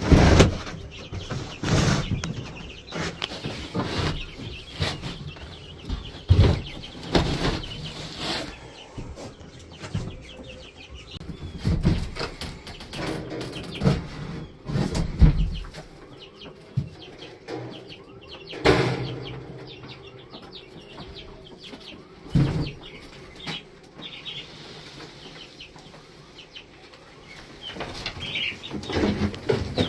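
Irregular knocks, thumps and scraping as equipment in the chick pen is shifted by hand, the loudest thump right at the start, over the cheeping and wing flapping of young broiler chicks.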